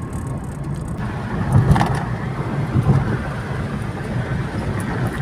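Car driving on the highway, heard from inside the cabin: a steady low rumble of engine and tyre noise, with a couple of louder bumps about two and three seconds in.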